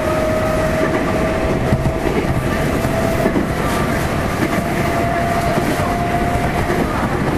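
Nankai 6200 series VVVF-renewed electric train running on the line, with a continuous rail rumble and a thin steady whine from its inverter-driven traction motors that edges slightly higher in pitch.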